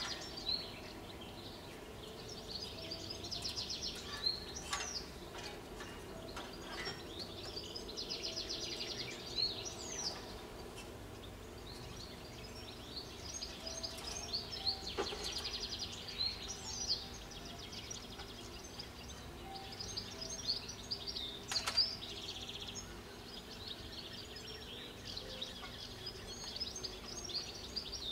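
Small birds chirping and trilling over a steady outdoor background hum, with a few sharp clicks or knocks.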